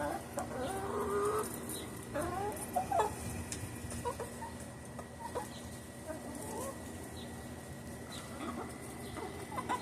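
Chickens clucking, with short calls scattered throughout and a faint steady high tone underneath.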